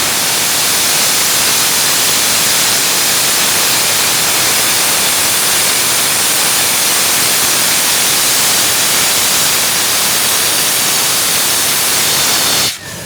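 Steam locomotive letting off steam in a loud, steady hiss that cuts off suddenly near the end.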